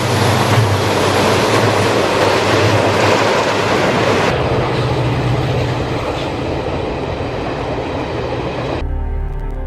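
Train running on the rails: a steady rumble and rushing noise that turns duller about four seconds in. Near the end, music takes over.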